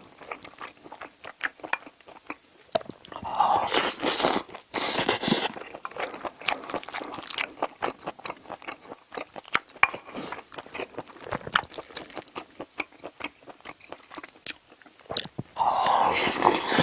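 Close-miked chewing and mouth smacking of a person eating stir-fried octopus with rice, a run of small wet clicks, with louder, denser stretches of eating about four seconds in and again near the end.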